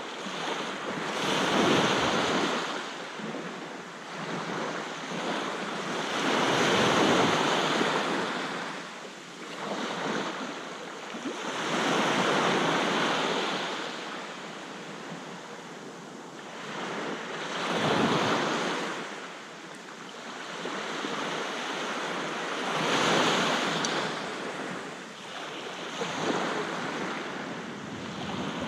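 Sea waves breaking and washing up on a beach, one about every five seconds, each swell of surf rising and then falling away.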